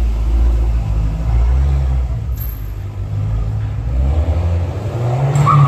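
Car engine running with a deep, steady low note, its pitch rising about four to five seconds in as it is revved or accelerates.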